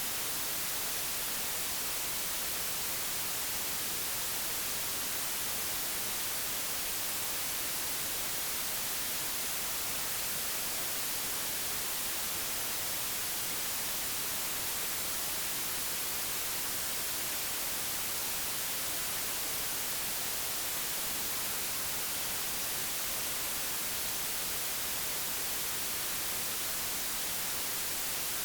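Steady digitally generated white noise, an even hiss across the whole frequency range with no change or events.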